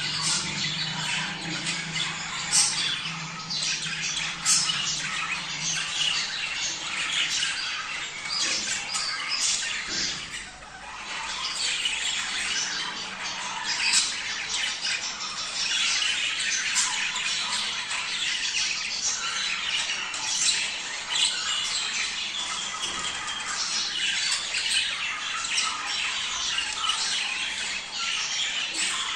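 A flock of budgerigars chattering and warbling without pause, with frequent sharp squawks and chirps over the top. This is the kind of excited flock chatter used to bring budgies into breeding condition.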